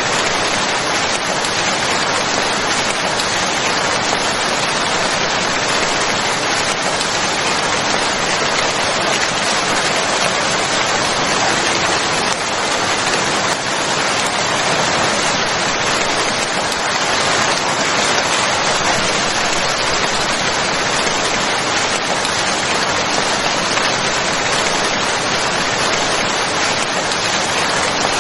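Steady, heavy rain falling in an even, unbroken hiss.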